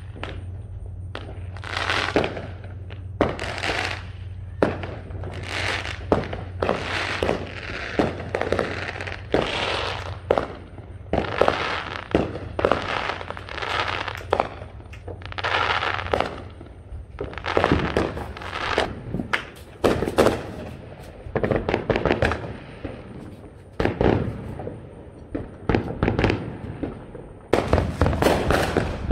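Fireworks going off in an unbroken run of bangs and crackling, one burst after another every second or so, with the loudest bangs coming thickest near the end.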